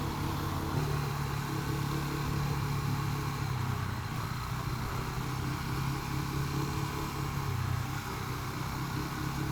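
Rieju 307 motorcycle engine running at steady revs under load while climbing uphill behind a slower vehicle.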